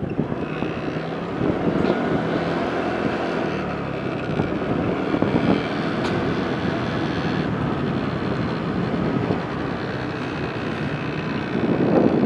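Vehicle engine running under way, with rushing wind and road noise on the microphone; it grows louder near the end.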